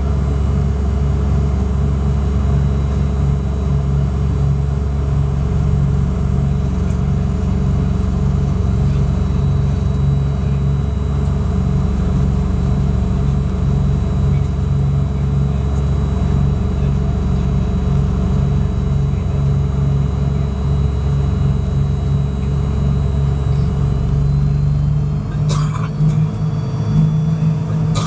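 Fokker 100 jet airliner's engines running with a steady low rumble and a steady whine, climbing slightly in pitch in the last few seconds. A single sharp click comes about 25 seconds in.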